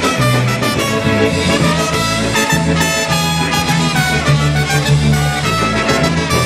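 Live polka band playing an instrumental passage, with brass and saxophone over a steady bass beat.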